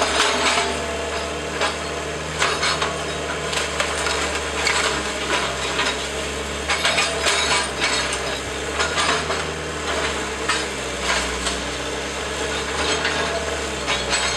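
Wooden house frame cracking and splintering as it is torn apart in demolition, with many irregular snaps and crunches over the steady hum of the demolition machine's engine.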